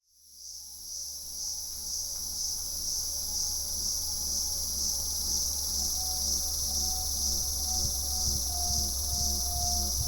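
A steady, shrill insect chorus fades in over the first second. It is layered over a low sustained drone and soft repeating musical tones that grow more distinct in the second half.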